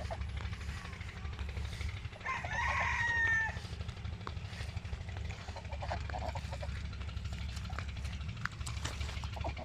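A rooster crows once, a single pitched call about a second long starting a little over two seconds in. A steady low rumble runs underneath, with a few faint short bird calls.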